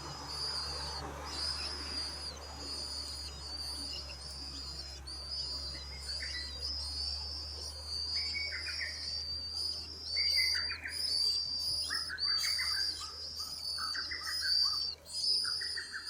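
Wild birds calling: a high, thin note repeated about once a second throughout, joined from about halfway by quicker, lower chirps, over a faint steady low hum.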